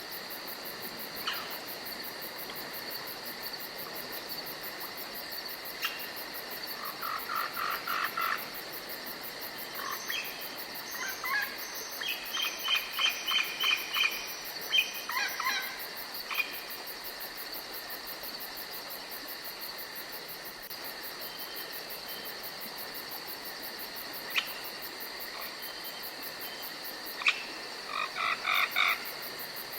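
Forest ambience of insects chirring steadily. Two spells of rapid, evenly repeated calls from an animal stand out above it: a long one in the first half and a short one near the end.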